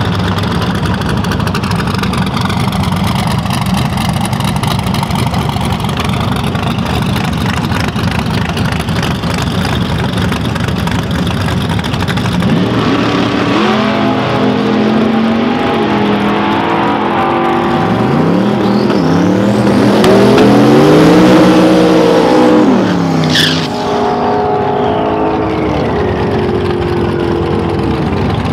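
Twin-turbo LSX V8 Mustang drag car, its engine rumbling low at first, then revving up hard with its pitch rising and stepping through several changes. It is loudest about three-quarters of the way through, with a short sharp burst just after, before settling lower.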